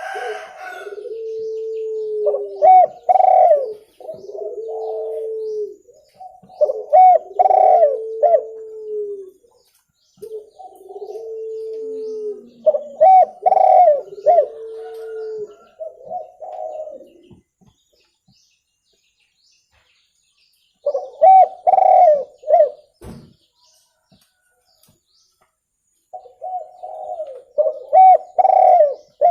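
Spotted dove (tekukur) cooing: repeated phrases of low, drawn-out coos mixed with shorter higher notes, separated by pauses of a few seconds.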